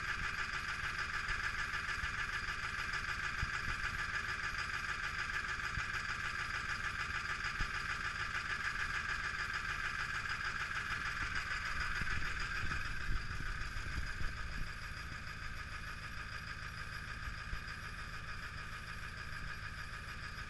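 Ford Power Stroke turbodiesel idling with a steady clatter after a cold start in freezing weather without the block heater plugged in. About twelve seconds in the tone shifts, with a few sharp knocks, and it then runs a little quieter.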